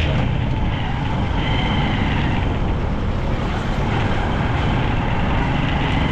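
Steady rumble of a road vehicle on the move, with road noise throughout.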